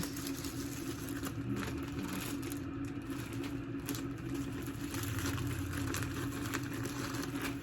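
Faint handling noises, light clicks and crinkles of small items and plastic packaging, over a steady low hum.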